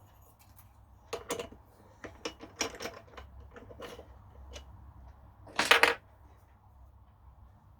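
Metal tools and parts being handled on a workbench: irregular clicks and clinks, with a louder rattling clatter just before six seconds in.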